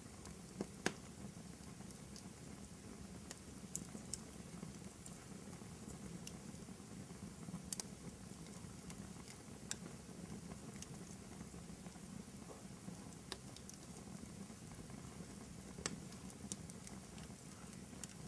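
Wood fire burning in a fireplace: a steady low rumble of flames with scattered sharp crackles and pops, the loudest about a second in.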